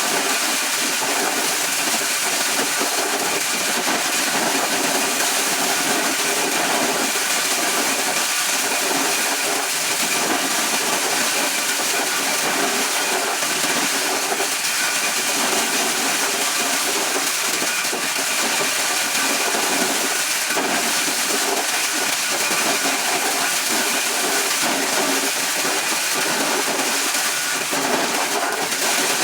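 Motor-driven corn shelling machine running steadily: a dense, even noise with a faint high whine.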